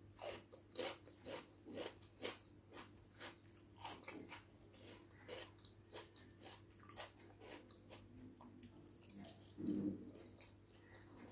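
Close-miked eating of egg biryani: soft, wet chewing and mouth clicks, about one or two a second, over a faint steady hum.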